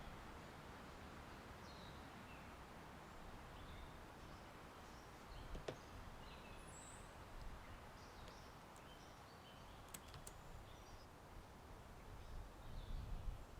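Soft, steady wind and rustling leaves with faint, scattered bird chirps, and a few sharp clicks about six and ten seconds in.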